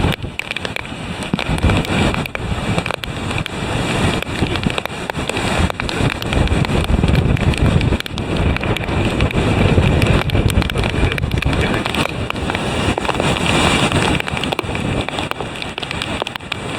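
Typhoon wind buffeting the microphone over the rush of heavy surf breaking against a seawall, in gusts that rise and fall.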